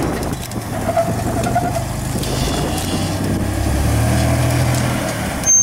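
Pickup truck engine running at low revs while crawling over rock, growing louder near the end, with a brief sharp sound just before it stops.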